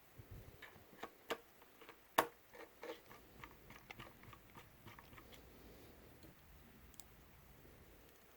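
Faint, irregular clicks and ticks of a small hex screwdriver turning tiny screws into a drone's plastic cover, with the sharpest click about two seconds in; the clicking thins out after about five seconds.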